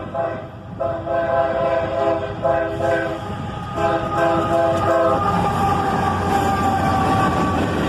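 Freight locomotive's multi-chime air horn, a GE AC44CW's, played as a horn show: a run of blasts broken by short gaps, then one long held note that ends near the end. The train's low rumble sits underneath.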